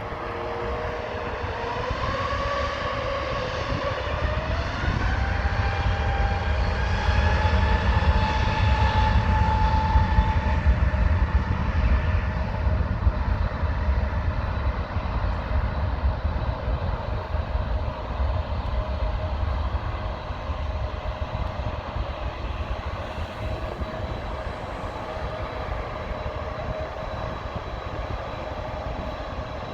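Jet airliner's engines spooling up for takeoff, an easyJet Airbus A320-family twinjet: a rising whine over the first few seconds that then holds steady over a deep rumble. The sound is loudest about a third of the way in and slowly fades as the aircraft rolls and climbs away.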